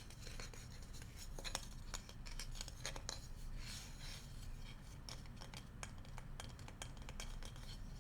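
Bamboo utensils handled close up, giving many quick, irregular clicks and taps.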